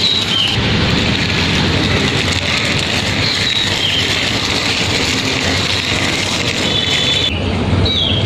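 Steady, loud engine-like vehicle rumble with a dense noisy hiss, and brief bird chirps at the start, about three seconds in and again near the end.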